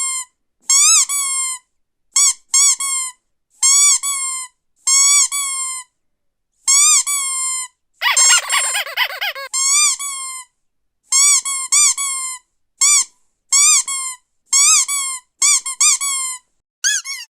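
A squeaky dog toy squeezed over and over, about fifteen high-pitched squeaks, each one rising and falling in pitch, with one longer, harsher squeak about eight seconds in.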